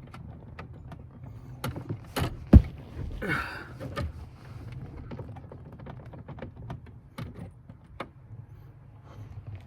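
Irregular clicks and knocks of hands working with tools and metal parts, the loudest a single sharp knock about two and a half seconds in, with a short scraping rasp just after.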